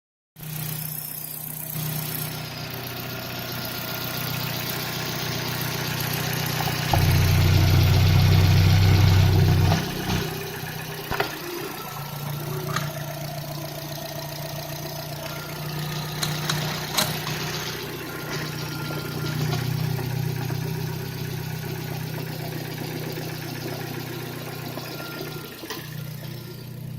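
Opel Astra H Z16XER 1.6-litre four-cylinder petrol engine idling steadily. Near the middle it runs much louder for about three seconds, then settles back to idle, with a few sharp clicks after.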